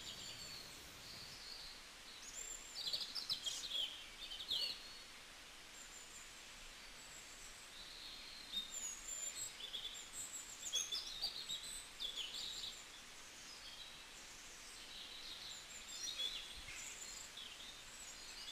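Small birds faintly chirping and twittering, with short quick calls coming in spells over a low background hiss.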